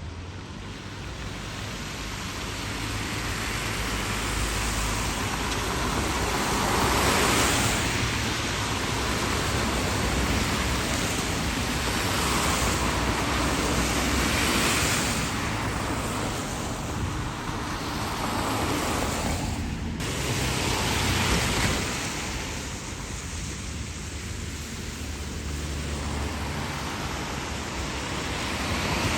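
Snowstorm street noise: a steady rush that swells and fades every few seconds.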